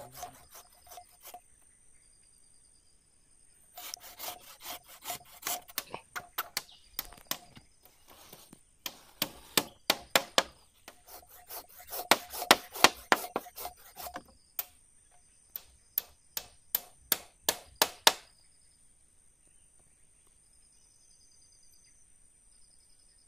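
Wood being cut with a hand saw in quick back-and-forth strokes, starting about four seconds in, pausing briefly near the middle and stopping a few seconds before the end.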